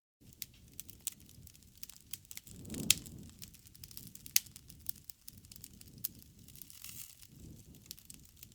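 Campfire crackling: wood popping in many sharp little snaps over the low rush of the flames, with two louder pops about three and four and a half seconds in.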